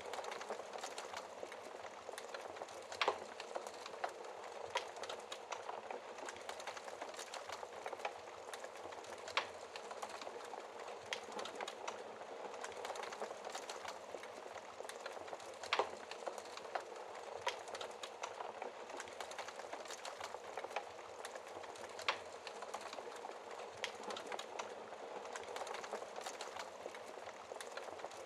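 Wood fire burning in a fireplace: logs crackling with frequent small, irregular pops over a soft steady hiss of flame, and a few sharper, louder snaps.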